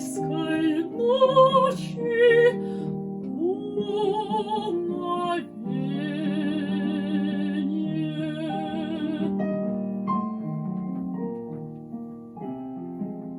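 Classical art song: a singer with wide vibrato over piano accompaniment sings a phrase that ends on a long held note, about nine seconds in. The piano then plays on alone.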